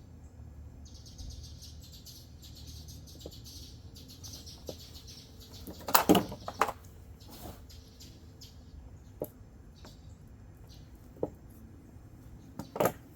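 Hands working on a small build at a bench: a high hiss lasting about four seconds, then several sharp knocks and clatters of parts being handled and set down, two of them much louder.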